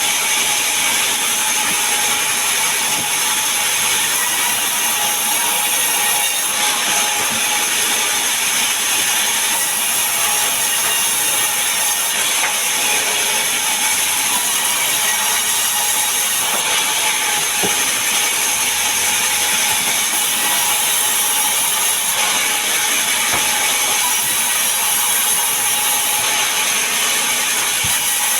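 Power saw running steadily while sawing mahogany and pine timber: a constant, high-pitched mechanical noise with no pauses.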